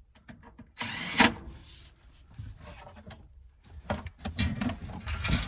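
Handling noise: scattered knocks and clicks of parts and tools being moved, with a loud scraping rustle about a second in and more clatter near the end.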